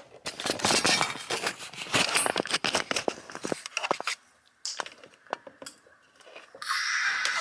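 Irregular clicks, knocks and rattles of a ring light and its stand being handled and fitted together. A steady hiss starts near the end.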